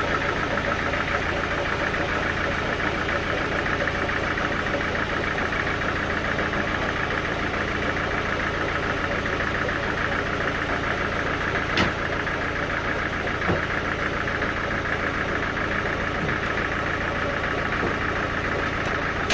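An engine running steadily at constant speed, typical of a portable sawmill's power unit, with two brief clicks about a second and a half apart in the second half.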